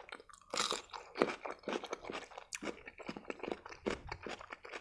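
Close-up crunching and chewing of a bite of pickled cucumber, a run of irregular crunches with the loudest about a second in.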